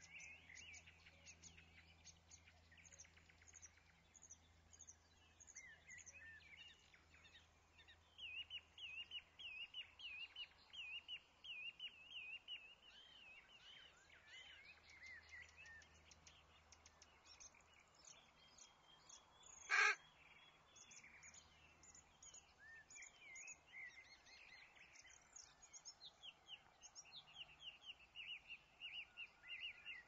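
Small birds chirping and twittering, with runs of quick repeated chirps, and one short, loud sound about two-thirds of the way through.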